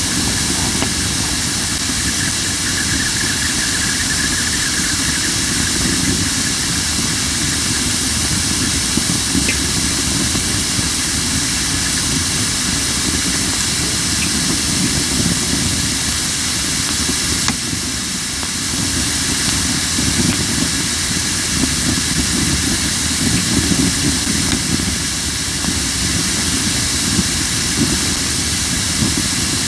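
Crape myrtle wood burning in a campfire, hissing steadily over a low flame rumble with little crackling, the hiss typical of wood still holding moisture.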